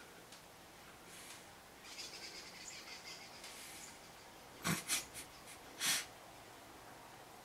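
Faint bird chirping in the background, then four short, sharp noises close to the microphone between about four and six seconds in.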